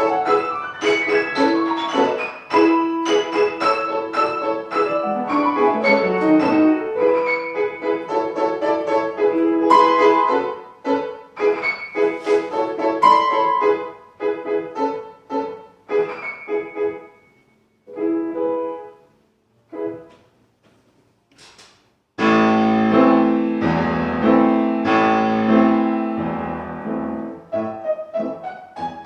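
Piano playing classical music. Fast, busy passages thin out about halfway into scattered notes with short silences, then a loud, full passage of heavy chords comes in about three-quarters of the way through.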